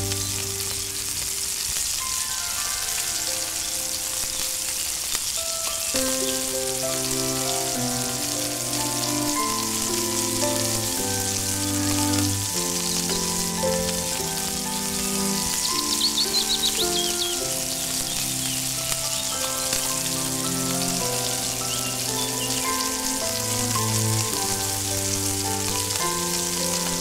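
Chopped onion and spices frying in hot oil in a tiny steel karahi, a steady sizzle. Instrumental background music plays a melody throughout.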